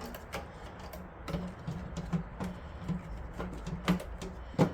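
Irregular light clicks and taps of hands working parts inside a small PC case, routing a PCIe riser cable past the power supply, with two sharper knocks near the end.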